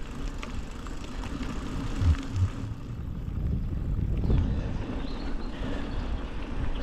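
Mountain bike being ridden on a wet path: a steady low rumble of wind and tyre noise on the microphone, with two dull knocks a little after two seconds in.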